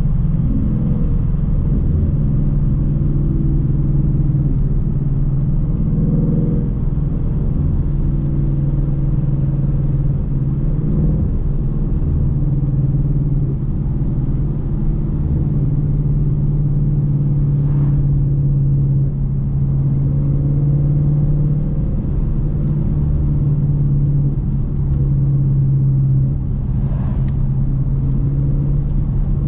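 Rear-wheel-drive car's engine running steadily during a drive, a constant low drone that shifts slightly in pitch a few times.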